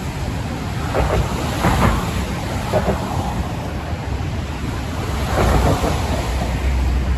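Wind buffeting the microphone in a snowstorm, a steady low rumble with a few short gusts swelling and fading.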